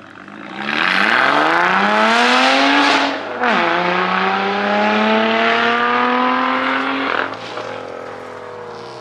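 A car accelerating hard away from the camera: the engine note climbs in pitch, drops sharply at an upshift about three seconds in, climbs again through the next gear, then the driver lifts off near the end and the sound fades.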